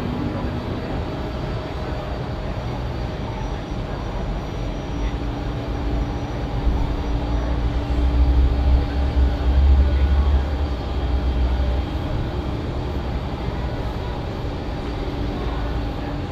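Jet airliner engines running, a steady rumble with a faint whine that swells for several seconds midway and then eases off.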